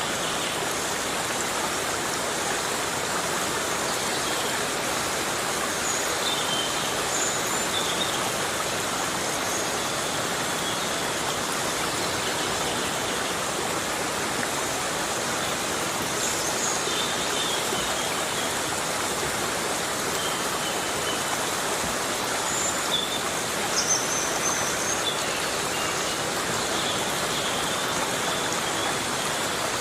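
Heavy rain falling steadily on forest foliage, an even rushing hiss. Brief faint high chirps come and go over it.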